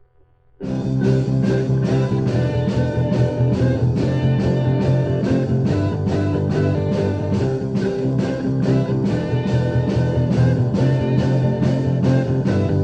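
A rock band with guitar and drums starts abruptly about half a second in and plays on with a steady beat.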